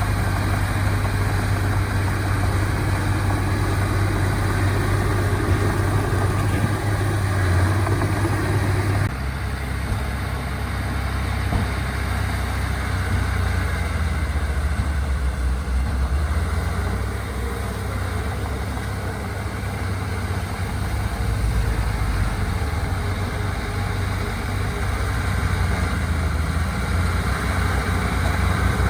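Diesel engines of earthmoving machinery running steadily, with a deep low hum; the engine sound changes abruptly about nine seconds in.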